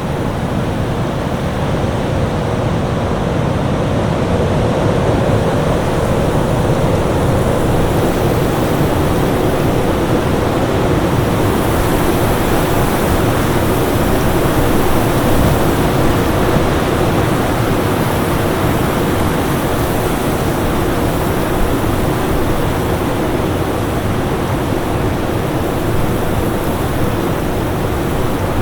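Steady rushing noise of a winter storm: wind blowing without letup. The hiss grows brighter about a third of the way through.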